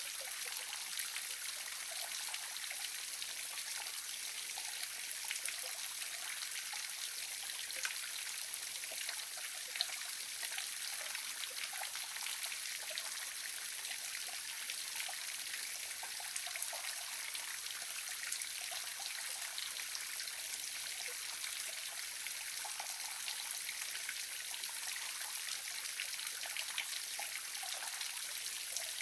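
Waterfall: water splashing and trickling steadily, with fine droplet spatter over an even rush.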